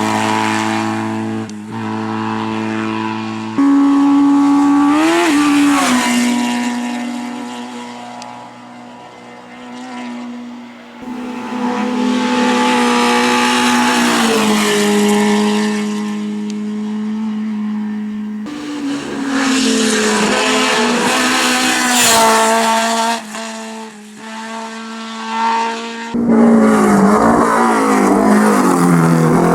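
Competition car engines running hard at high revs, the pitch stepping and sliding with throttle and gear changes, with some tyre squeal. The engine note changes abruptly several times as one car gives way to another.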